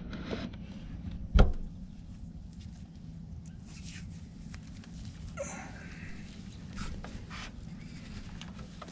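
Hands handling tools and parts: one sharp knock about a second and a half in, then soft rustling and scraping, over a steady low hum.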